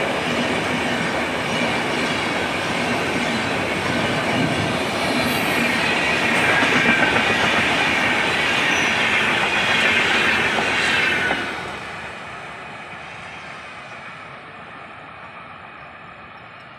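LHB passenger coaches rolling past close by at speed, with a steady rumble and wheel-on-rail clatter. The noise grows louder and higher-pitched midway, then drops sharply about eleven seconds in as the last coach goes by and fades as the train moves away.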